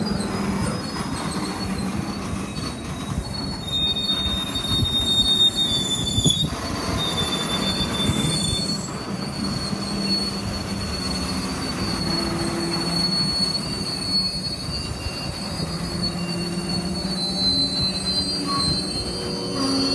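Grain train wagons rolling slowly by, their wheels squealing on the rail in long, high, wavering whines over a steady low drone and rumble.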